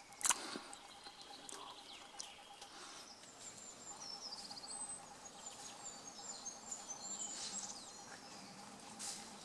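Faint songbird song in woodland: a run of high chirps and a short falling trill of notes.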